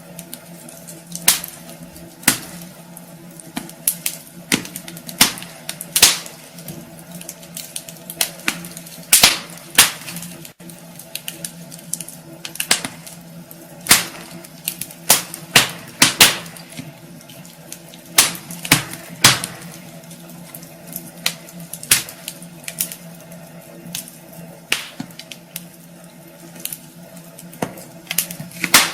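Wood fire burning in a fireplace, crackling with irregular sharp pops over a steady low hum.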